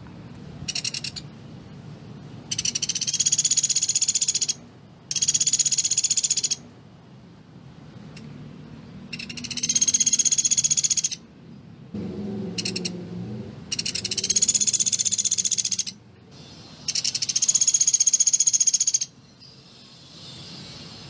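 Pelatuk beras woodpecker giving fast, tightly packed rattling trills, high-pitched and about two seconds each, repeated after short pauses with a couple of brief ones between.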